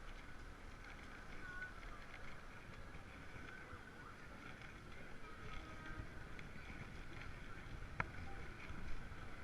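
Faint, even low rumble of outdoor background noise with a few faint brief tones, and one sharp click about eight seconds in.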